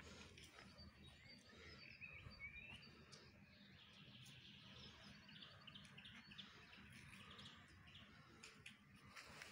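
Faint birds chirping, short scattered calls and a few rising chirps over quiet outdoor background noise.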